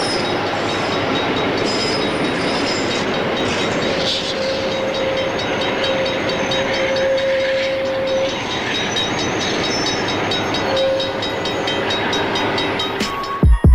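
Train noise: a steady rumble and clatter of rail traffic, with a single held horn-like tone from about four to eight seconds in and again briefly near eleven seconds. Music cuts in right at the end.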